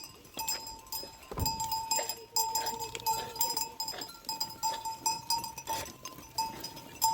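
Metal livestock bells clanking irregularly, several rings overlapping and struck again and again as the animals move.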